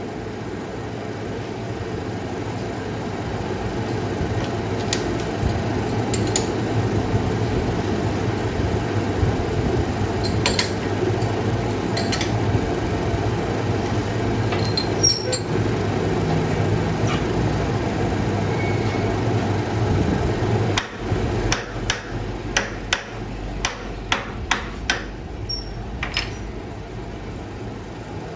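A workshop machine runs with a steady hum. About two-thirds of the way through the hum changes, and a string of about eight sharp metal knocks follows, hammer taps during fitting of the sleeve into the motorcycle wheel hub.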